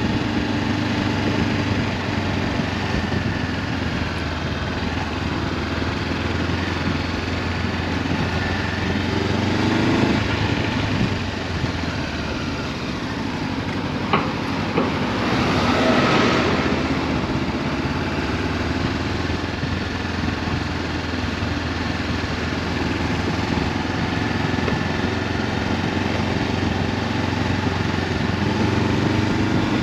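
Honda CB500F's parallel-twin engine through an Akrapovic exhaust, running as the motorcycle is ridden, its pitch rising and falling with the throttle, under steady wind noise on a helmet-mounted camera. A brief louder rush of noise swells about halfway through, just after a sharp click.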